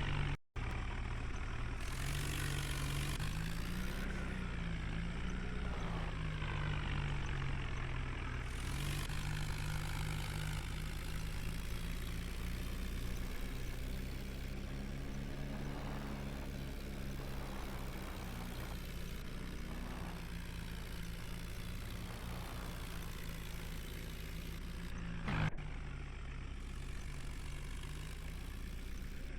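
New Holland tractor's diesel engine running steadily, its pitch rising and falling slightly now and then. The sound breaks off completely for a moment about half a second in, and there is a short knock near the end.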